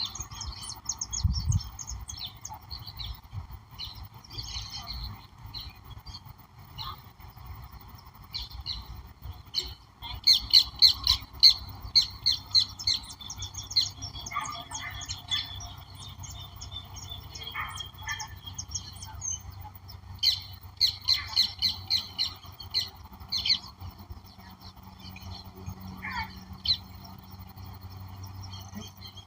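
Several wild birds chirping and singing together in many short calls, with a long fast trill starting about ten seconds in and lasting several seconds, over a steady background drone.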